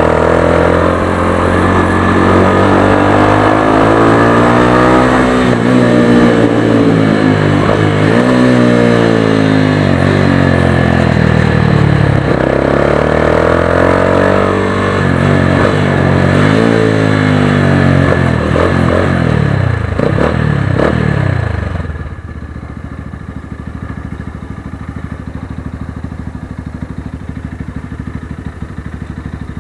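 Motorstar Xplorer Z200S motorcycle engine through its stock exhaust run without a silencer, revving up and dropping back again and again as the bike accelerates and shifts gears. About three quarters of the way through it falls to a quieter, steady low running.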